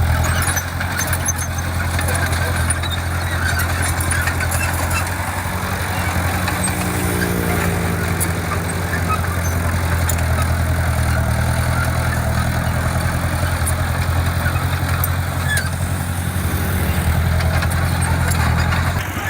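Diesel engine of heavy earthmoving equipment running steadily at low revs, with a brief rise in pitch near the middle.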